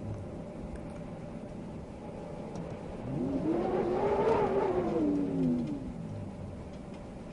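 A motor vehicle passes by, its engine note rising and then falling over about three seconds, loudest a little past the middle, over a steady background of wind.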